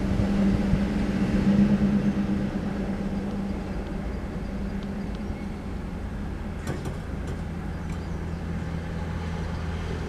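Low rumble of a freight train moving away after clearing the crossing, loudest in the first two seconds and then fading into a steady low hum. A few sharp clicks about seven seconds in fit a pickup truck's tyres crossing the rails.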